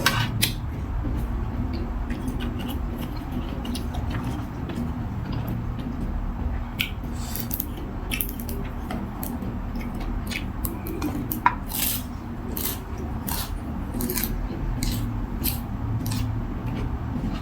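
Eating noodle soup: utensils clinking and scraping against a bowl in many short, sharp sounds, with eating noises in between.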